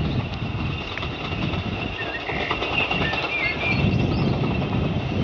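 A few short bird chirps over a steady low rumble.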